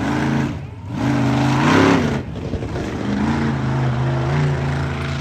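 A vehicle engine revving up and down repeatedly, its pitch rising and falling, loudest about two seconds in.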